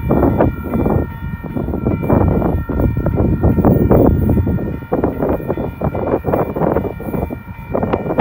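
Double-stack container train receding along the line, its fading rumble mixed with irregular gusts of wind on the microphone. A steady high ringing of several tones runs under it all.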